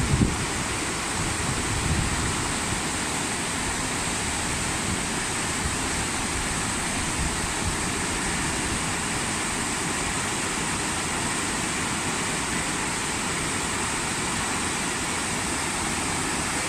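Steady rushing of running water, an even hiss without pause, with a few low gusts in the first couple of seconds.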